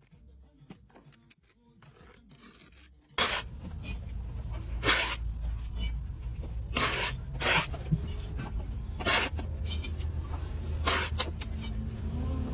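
Slime being squished and played with by hand: a string of sharp pops and crackles at irregular intervals over a low steady hum, starting suddenly about three seconds in after a faint stretch of small clicks.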